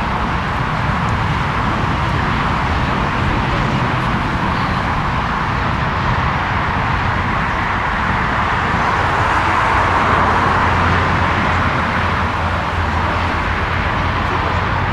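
Jet engine noise from a Lufthansa Airbus A340-300's four CFM56 turbofans: a steady rushing sound with a low hum beneath it that swells slightly about ten seconds in.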